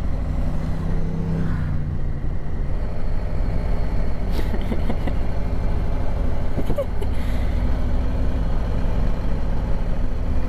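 Harley-Davidson Street Glide V-twin engine running while riding, with wind and road noise over the microphone. The engine note shifts briefly in the first couple of seconds and rises a little near the end.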